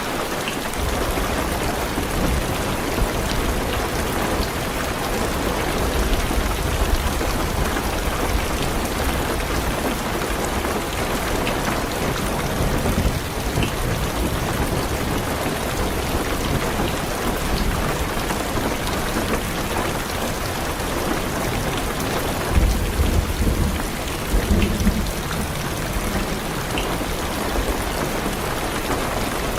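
Heavy rain pattering on a car's roof and windows, heard from inside the car, over low rolling thunder. The thunder swells loudest about three-quarters of the way through.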